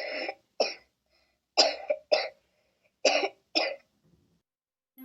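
A person coughing: three pairs of short, sharp coughs, each pair about a second and a half after the last.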